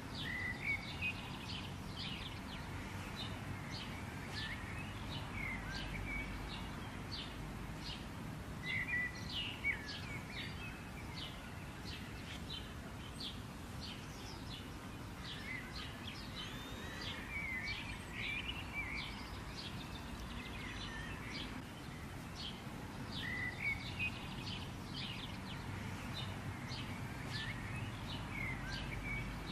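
Small birds chirping repeatedly, with short high chirps several times a second and a few longer chirping phrases, over a steady low outdoor background noise.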